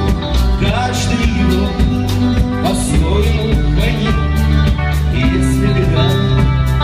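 A band playing a song: a steady drum beat, bass guitar and guitar, with a voice singing the melody.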